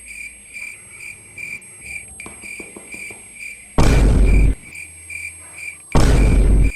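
A high-pitched chirp pulsing about twice a second like a cricket, the ringing-in-the-ear sound that turns out to come from the TV. Two loud bursts of harsh noise, each under a second, break in about four and six seconds in.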